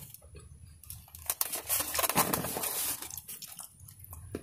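Chewing and crunching on fried food, with scattered sharp clicks and rustles over a low steady rumble.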